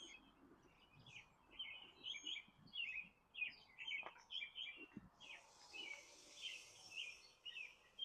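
A bird chirping over and over, short chirps about twice a second. A faint, steady, high hiss joins about five seconds in.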